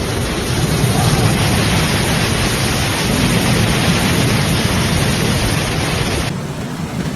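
Heavy typhoon rain and wind make a loud, steady noise with no distinct events. The sound changes abruptly near the end, where the footage cuts to another stretch of storm noise.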